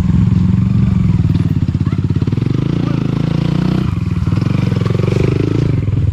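Dirt bike engine running steadily under throttle, easing off briefly about four seconds in before picking up again.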